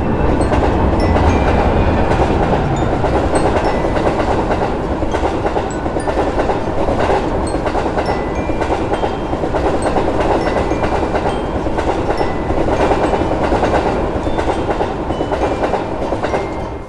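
A train passing: the steady rumble and rattle of the cars on the rails, with a clickety-clack of the wheels. It cuts off suddenly near the end.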